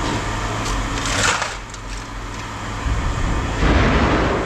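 Scrap metal being handled, a sharp clatter about a second in and scraping and rattling near the end, over the steady low hum of an idling vehicle engine.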